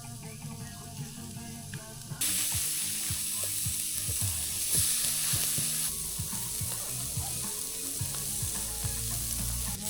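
Food sizzling and frying, starting abruptly about two seconds in as a steady hiss with small crackles; before it, faint music.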